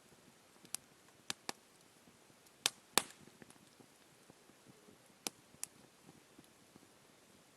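Wood campfire crackling: about seven sharp, scattered pops, the loudest about three seconds in.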